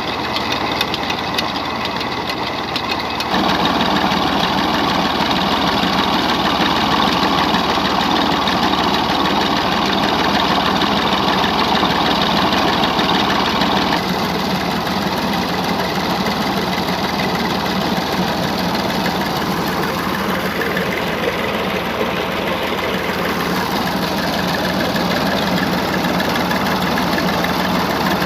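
Massey Ferguson 135 tractor engine running steadily under heavy load while driving a tubewell pump. It gets louder about three seconds in and shifts in tone again around halfway through.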